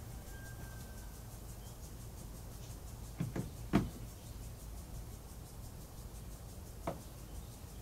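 A few short knocks from hand tools and parts being handled during the teardown: three close together about halfway through, the middle one loudest, and one more near the end, over a low steady hum.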